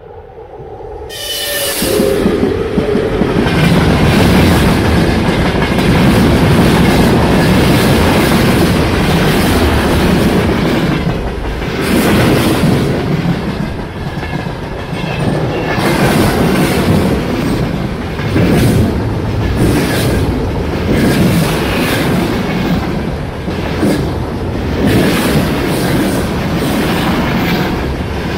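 Freight train behind an electric locomotive passing close by at speed: a loud rumble of steel wheels on the rails that builds over the first couple of seconds as the locomotive arrives, then holds as the tank and timber wagons roll past, with a steady clickety-clack as each wheel set runs over the rail joints.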